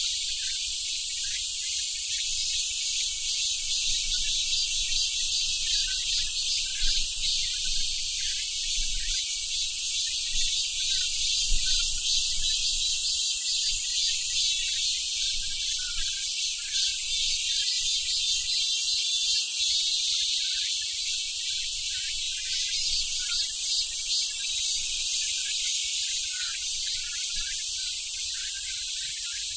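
Korean robust cicadas (Hyalessa fuscata, 참매미) singing: a loud, high-pitched pulsing drone that carries on without a break and swells slightly in the later part.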